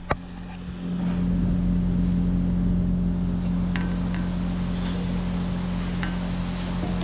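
Kubota excavator's diesel engine running steadily at a constant speed, coming up about a second in, with a few faint ticks over it.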